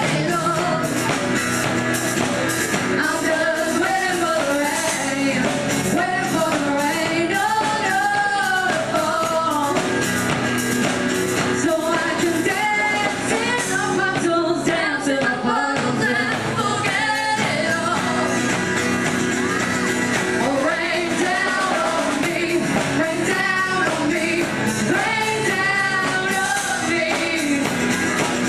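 Live band music with women singing a melody over steady, full accompaniment.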